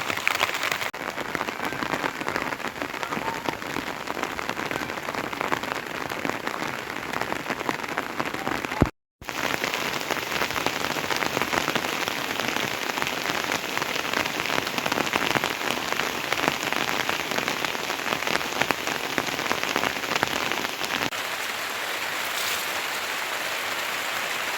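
Steady heavy rain falling, a dense even hiss of drops, which cuts out for a moment about nine seconds in.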